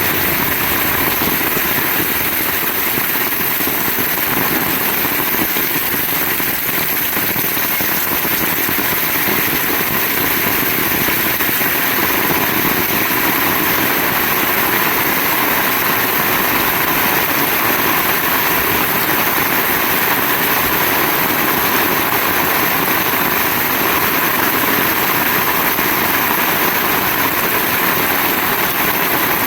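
Heavy rain falling in a steady downpour, an even hiss that holds at one level throughout.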